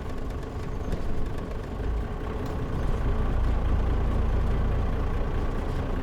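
Diesel engine of a Mitsubishi Fuso Aero Star non-step city bus (KL-MP37JM, automatic transmission) running steadily, heard from inside the passenger cabin with the air conditioning off.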